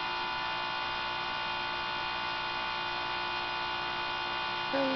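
Steady electrical hum made of many even tones, unchanging throughout.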